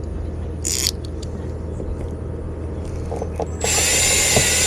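A steady low hum with a short burst of hiss about a second in; about three and a half seconds in a power drill starts up, a loud whirring with a high steady whine that keeps going.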